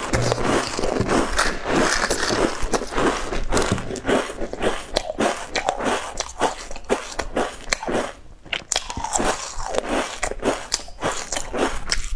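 Close-miked chewing of crisp, crunchy food: a rapid, uneven run of crunches and bites, easing briefly about eight seconds in before picking up again.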